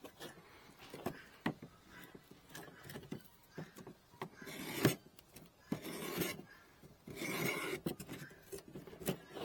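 A hand tool scraping and rubbing on a wooden beehive frame in several short, irregular strokes, with a few sharp clicks.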